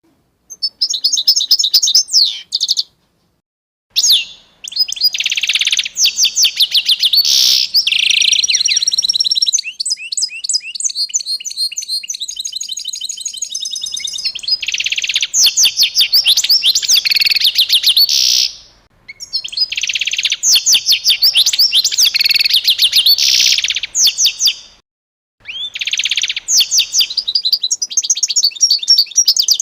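Small birds chirping in fast, repeated series of high notes, in several runs broken by short dead silences that sound like cuts between recordings.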